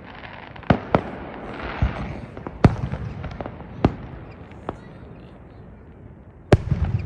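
Fireworks going off: about six sharp, irregularly spaced bangs, the last about six and a half seconds in, followed by a brief crackle.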